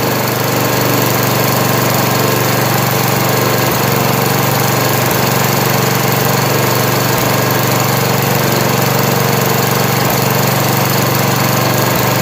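Lawn tractor engine running at a steady, unchanging speed.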